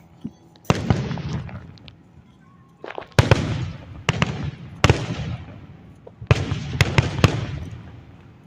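Aerial firework shells bursting: about seven sharp booms, each trailing off in a rumbling echo. One comes about a second in, then a quick run of bursts starts about three seconds in.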